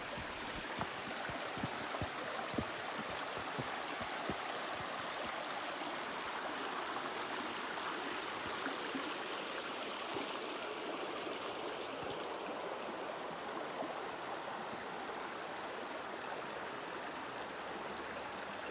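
Creek water flowing steadily, a constant rushing hiss. A few faint knocks sound in the first few seconds.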